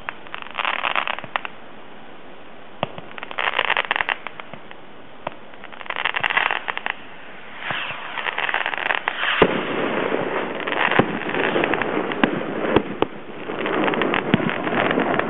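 Fireworks going off in crackling bursts, with sharp pops among them. The bursts come a few seconds apart at first; after a sharp crack about two-thirds through, the crackle runs almost without a break.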